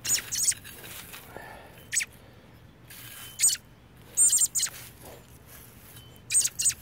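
Short, high-pitched bird chirps, coming singly or in quick groups of two or three every second or two.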